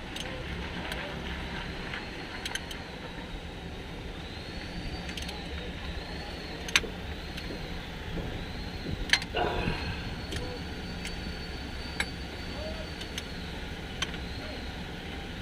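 A few sharp metallic clicks and clinks of hand tools on engine parts, spaced several seconds apart, over a steady background hum.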